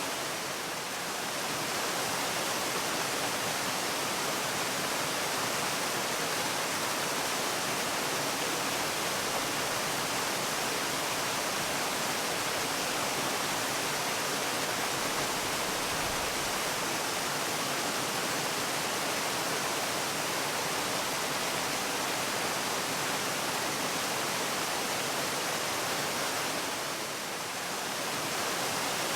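Waterfall: falling water making a steady, even rush with no pauses, its sound spread high and wide like white noise.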